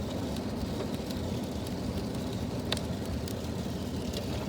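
Heavy rain falling steadily outside a window, an even hiss with a few faint drop ticks.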